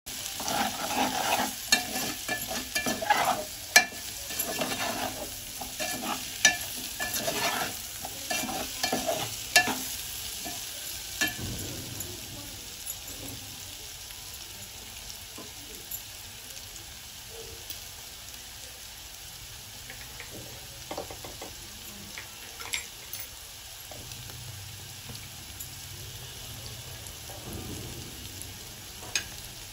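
A metal ladle stirs and scrapes diced potatoes in a metal pot, clattering for roughly the first ten seconds. After that the potatoes sizzle steadily as they fry in oil, with only a few scattered ticks.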